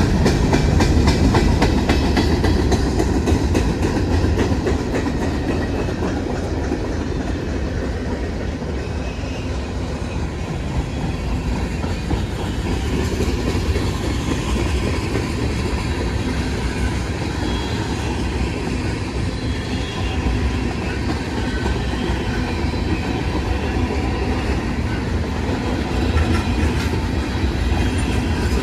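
Freight train cars rolling past at steady speed, their wheels clattering continuously over the rail joints.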